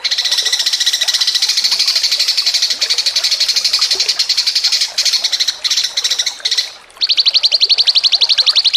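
Songbird singing long, rapid high-pitched trills, broken into choppy phrases near the middle. After a brief gap about seven seconds in, a fast, evenly pulsed trill begins, likely a different bird's song cut in.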